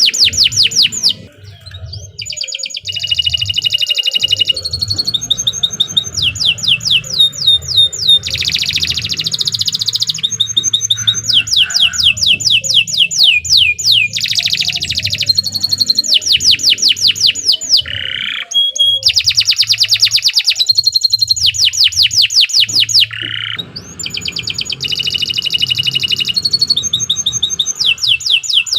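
Domestic canary singing vigorously: a long, continuous song built from rapid runs of identical repeated notes, each run changing to a new note type every second or two, with brief breaks about a second and a half in and near the end.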